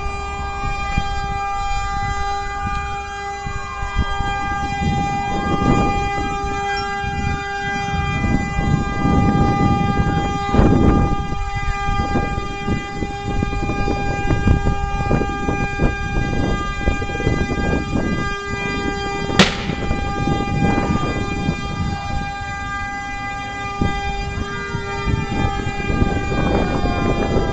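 Emergency sirens wailing, rising and falling, over a steady horn tone held without a break, with a sharp crack about nineteen seconds in.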